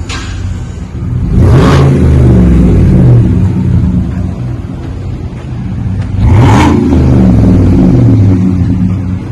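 2018 Chevy Tahoe's 5.3-litre V8 running through a cat-back dual exhaust with a Flowmaster 40 muffler, revved twice about five seconds apart. Each rev is held for a second or two and then drops back to idle.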